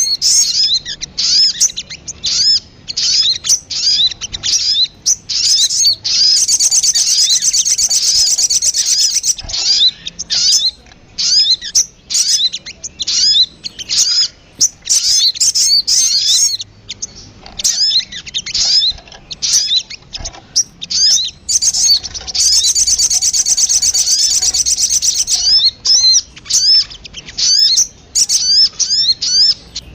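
Sogon (spiderhunter) calls from a bird-lure recording: a busy run of short, sharp, high chirps, broken twice by a fast trill lasting about three seconds, once about six seconds in and again about 22 seconds in.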